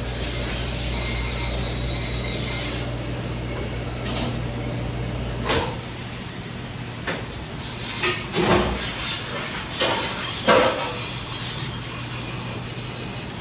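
A steady mechanical hum that drops away about five and a half seconds in, followed by several separate knocks and clatters.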